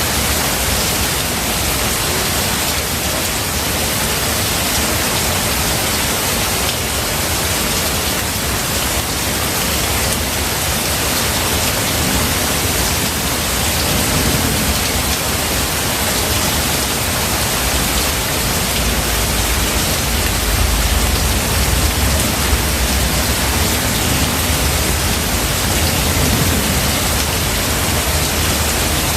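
Steady, heavy rain hiss. A low rumble swells up about twenty seconds in and eases off.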